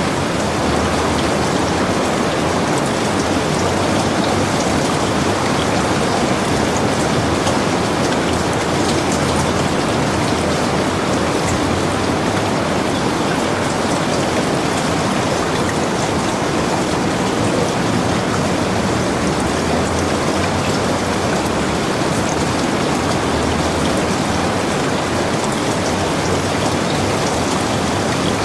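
Heavy rain falling steadily, drops pattering on surfaces, an even hiss without breaks.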